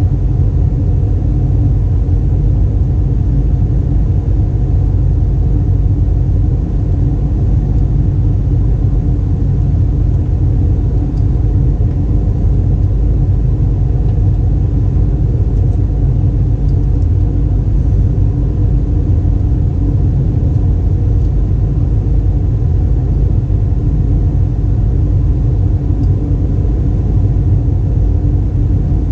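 Steady, loud cabin rumble inside a LATAM Airbus A320 in flight, from engine and airflow noise, with a low hum of steady tones underneath.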